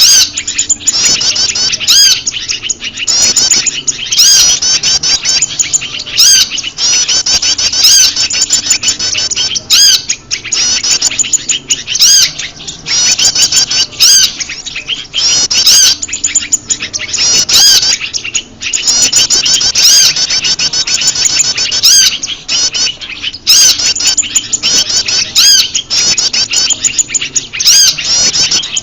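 Bird-lure recording of prenjak lumut calls mixed with the calls of other small birds: rapid, high chirping in short repeated phrases with brief gaps, one after another.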